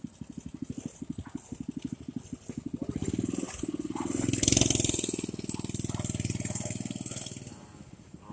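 Small dirt bike engine running with a quick, even putter, picking up speed about three seconds in and loudest around the middle before easing off again.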